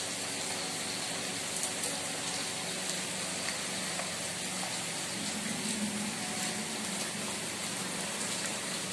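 Heavy rain falling steadily, splashing into standing water on a flooded brick courtyard.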